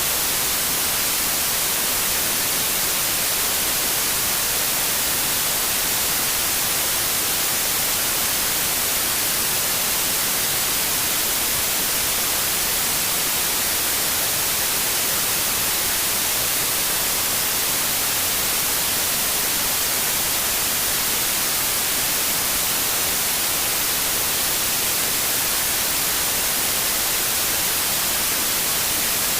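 Steady white noise: an even, unchanging hiss across all pitches, strongest in the highs.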